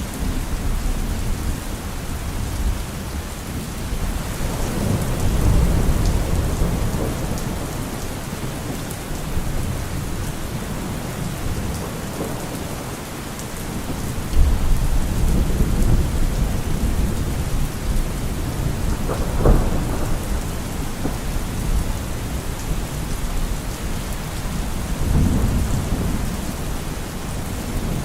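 Steady heavy rain with thunder rumbling through it, swelling several times, with a sharper clap about two-thirds of the way in.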